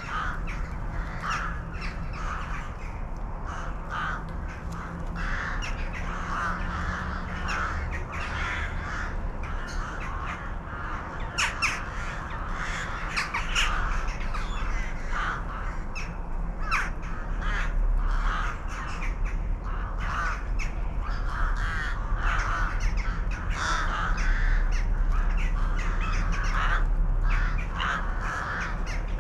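Crows cawing over and over, many harsh calls overlapping, with a low steady hum underneath.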